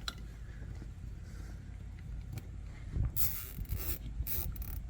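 Dash cam cable and plastic dash trim being handled as the cable is tucked into place: a click at the start, then two short scraping, rustling bursts about three and four and a half seconds in, over a low steady hum.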